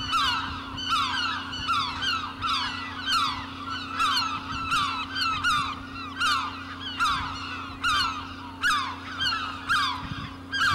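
Bird calls repeated about twice a second, each call sliding down in pitch, over a steady low hum.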